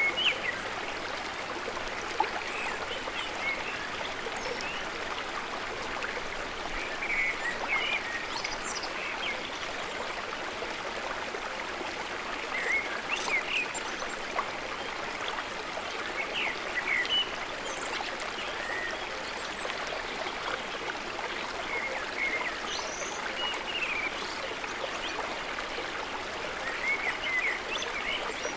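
Mountain waterfall with a steady rush of falling water, with small birds chirping and whistling in short calls over it now and then.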